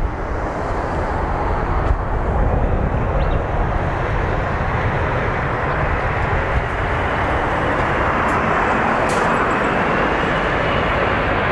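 Jet engines of a Boeing 787-9 airliner on final approach, a steady rushing noise that slowly grows louder, with a faint whine coming in about halfway through.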